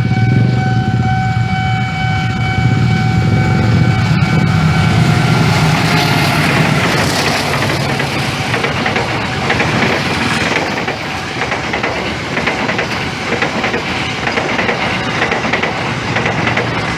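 Passenger train hauled by two diesel locomotives passing close by: engine hum and a steady high tone die away in the first few seconds, then a long, loud rolling rumble of carriages with wheels clacking over the rail joints.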